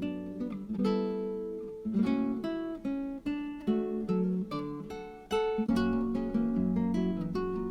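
Background music: plucked acoustic guitar playing a calm, picked melody over chords.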